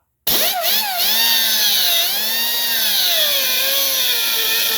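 Cutoff wheel tool starting up about a quarter second in and cutting through a threaded tapered crack-repair pin. Its pitch dips and recovers as the wheel bites into the pin and is eased off, over a loud, hissing grind.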